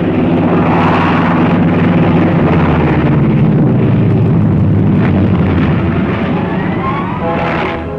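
Loud, continuous noise of WWII piston-engine fighter aircraft and combat, a dense rumble with an engine pitch rising near the end.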